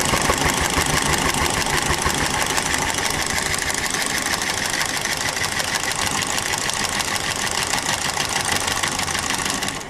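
A power tool cutting through a pipe, running steadily with a rapid buzzing rhythm and stopping near the end.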